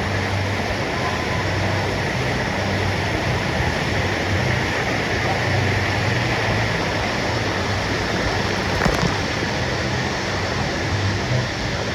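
Steady rush of churning water in a whitewater wave river, with a low hum underneath.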